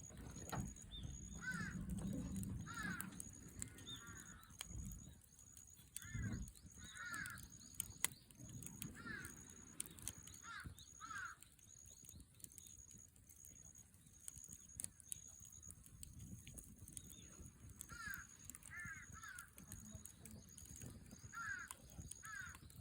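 Crows cawing in short runs of two or three calls, several times over, with a high, evenly pulsing chirp running underneath.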